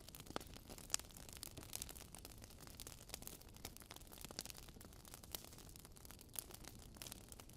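Wood fire burning in a fireplace: a soft hiss with frequent sharp crackles and pops, a couple of louder snaps in the first second.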